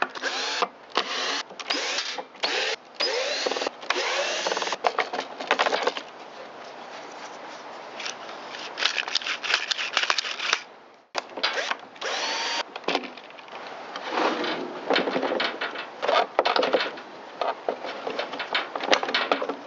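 Cordless drill-driver backing out bolts and screws in many short runs, its motor whine rising and falling each time it starts and stops, with clicks between runs near the end.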